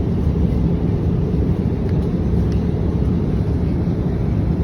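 Steady low rumble of an aircraft in flight, even and unchanging.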